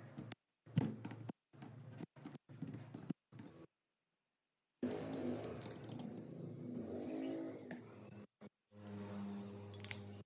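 A machine running, heard in short edited cuts: the louder part, from about five seconds in, is a steady mains-motor hum with a slightly wavering pitch.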